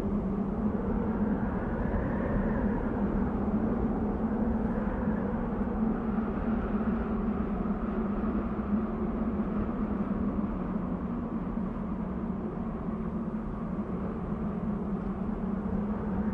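Desert wind blowing steadily, a low drone under a higher whistling tone that swells about two seconds in and then slowly eases.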